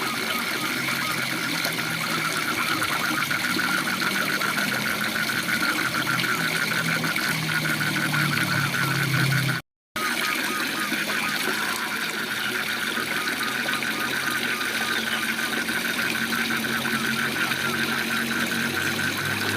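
A chorus of frogs giving fast, rapidly pulsed calls over the steady rush of a waterfall. The sound cuts out completely for a moment about halfway through.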